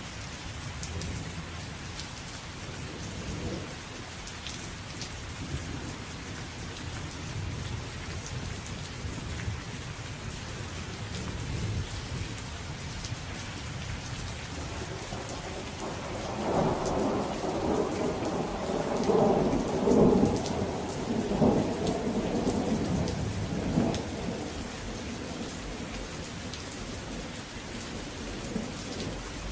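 Steady rain falling on surfaces, with scattered sharp drips, and a thunder rumble that swells from about halfway through, peaks near two-thirds of the way in and dies away a few seconds later.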